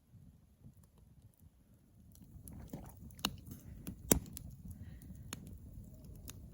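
Campfire crackling, with scattered sharp pops and snaps over a low rumble of burning wood; the loudest pop comes about four seconds in.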